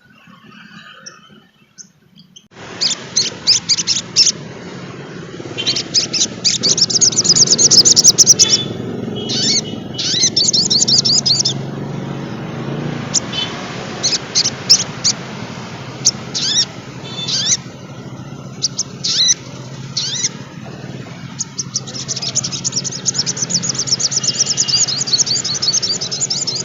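Sogon trotol songbird singing in fast, high-pitched chattering twitters and trills, starting about two and a half seconds in, over a steady low background hum.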